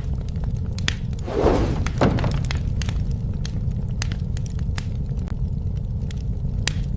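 Wood fire burning with a steady low rumble and scattered sharp crackles and pops. About a second in there is a short louder rush, ending in a knock, such as burning wood shifting or breaking in the fire.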